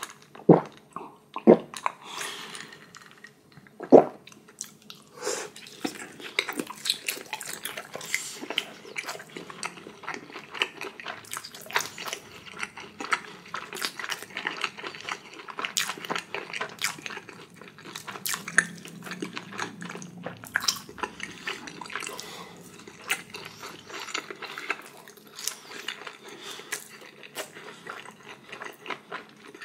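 A man gulping water from a glass, with a few loud swallows in the first four seconds. Then he chews dumplings close to the microphone: steady wet smacking and clicking mouth sounds.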